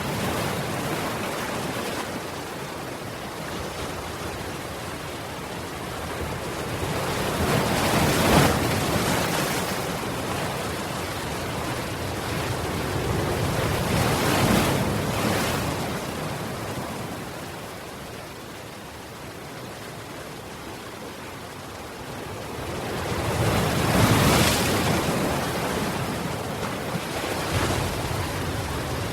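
Ocean surf: a steady wash of waves on a shore that swells louder three times as larger waves break, about a third of the way in, near the middle and again later on.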